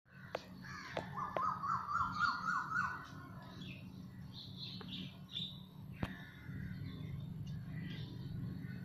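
Garden birdsong: one bird calls a quick run of about eight rising notes, loudest in the first three seconds, while other birds chirp in short bursts. A steady low hum runs underneath, with a few sharp clicks.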